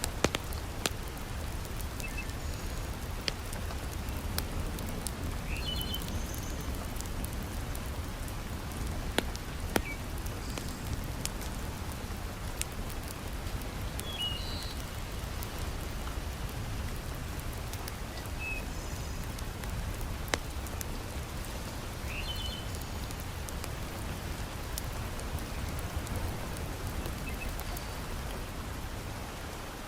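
Steady heavy rain falling, with scattered sharp crackles from a wood fire and a few short, high chirps every few seconds.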